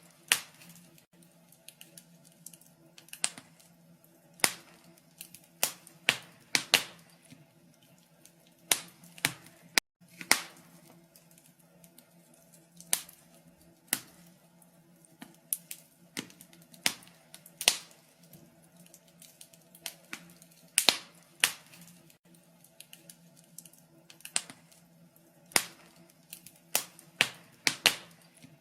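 Wood fire in a fireplace crackling, with sharp, irregular pops and snaps about once or twice a second over a faint steady low hum.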